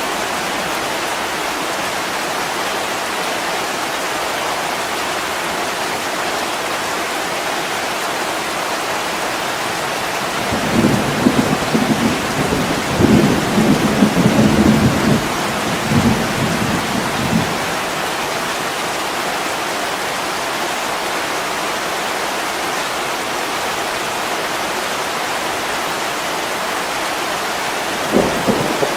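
Steady heavy rain beating on a window pane. About ten seconds in, a low rolling rumble of thunder rises over the rain for some seven seconds, and a short low rumble comes again near the end.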